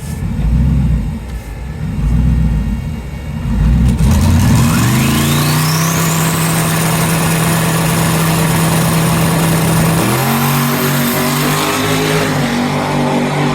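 Twin-turbo Camaro drag car launching and running down the strip, its engine loud and pulsing for the first few seconds. About four and a half seconds in a high whine rises steeply in pitch over a steadier engine tone, which shifts around ten seconds in.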